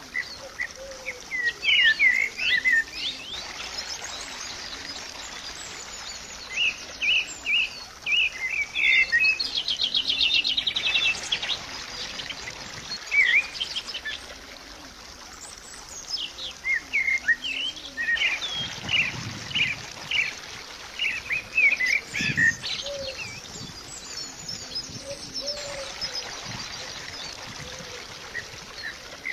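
Birds chirping and singing in many short calls, with a fast trill about ten seconds in, over a steady soft wash like a trickling stream.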